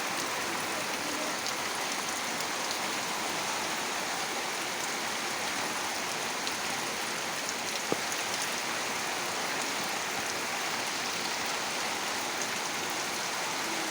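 Heavy rain falling steadily, an even dense hiss of drops, with a single sharp tap about eight seconds in.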